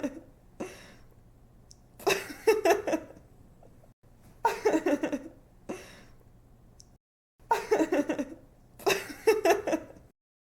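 A young woman laughing: several short bursts of quick giggles with quiet breathy gaps between them, stopping shortly before the end.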